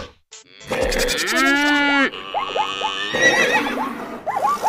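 Layered animal-call sound effects. After a short gap, one long call rises and falls in pitch, like a horse's whinny. From about two seconds in, it gives way to a run of short repeated calls laid over one another.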